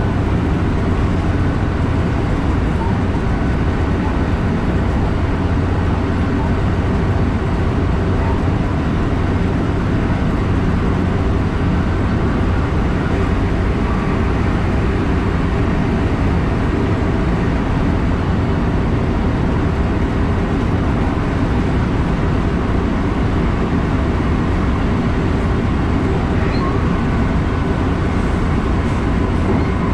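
An electric commuter train's steady running noise heard from inside the front car: a constant low rumble of wheels on track and motors, with no change in speed or level.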